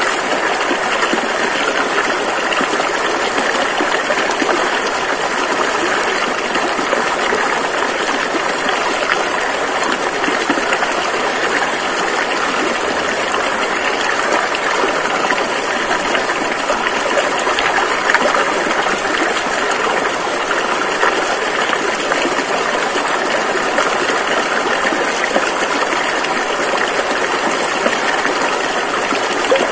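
Rushing river water flowing over rapids in a steady, unbroken noise.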